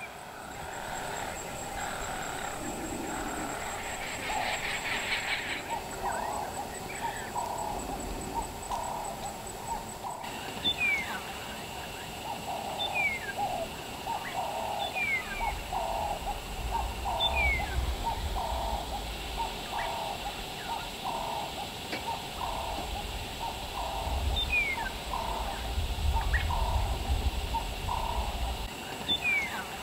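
Bush birds calling: a short hooting call repeated about twice a second, with thin falling whistles every second or so. A low rumble comes and goes in the middle and near the end.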